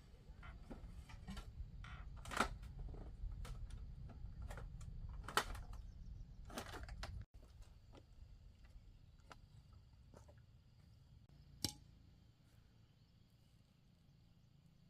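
Irregular knocks and clicks, a few much sharper than the rest, over a low rumble that cuts off about halfway through; a single sharp knock near the end.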